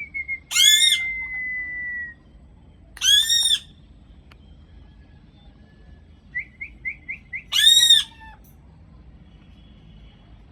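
Parrot calling: three loud, harsh screeches of about half a second each, near the start, about three seconds in and near eight seconds. A long steady whistle runs through the first two seconds, and a quick run of five short rising chirps comes just before the last screech.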